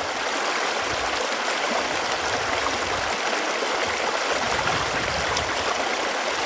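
Running water flowing steadily, an even, unbroken rushing hiss.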